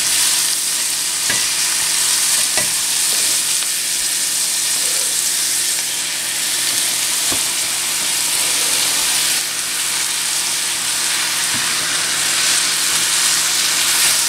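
Sliced mushrooms, onion and green chillies sizzling steadily in coconut oil in a cast-iron skillet as they wilt. A silicone spatula stirs them now and then, with a few light knocks against the pan.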